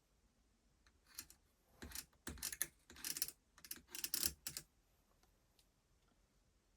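A run of sharp clicks and rattles, bunched in several quick groups over about four seconds, as of small hard parts being handled.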